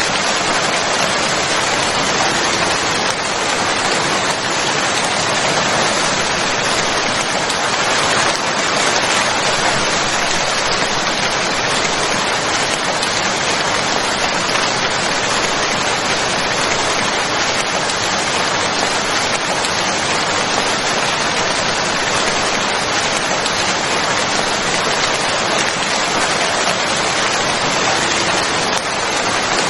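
Steady rain falling, an even unbroken hiss with no pauses.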